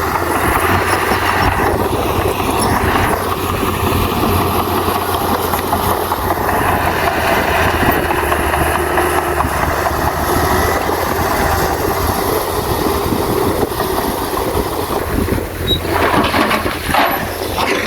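Heavy diesel earthmoving machinery running steadily, with a constant low engine drone and mechanical noise over it.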